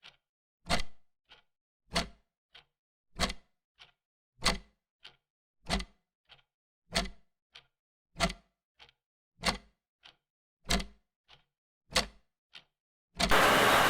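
Clock ticking in an even tick-tock: a sharp tick about every 1.25 seconds, each followed by a fainter tock about half a second later. Near the end there is a short burst of hiss lasting under a second.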